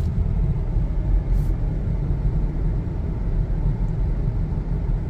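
Steady low rumble of a car being driven: road and engine noise heard from inside the cabin.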